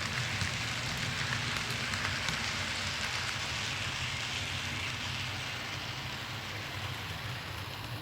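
HO-scale model train running on the layout: a steady low hum from the locomotive's motor under a rushing, rain-like hiss of wheels rolling on the rails, swelling in the middle and easing toward the end.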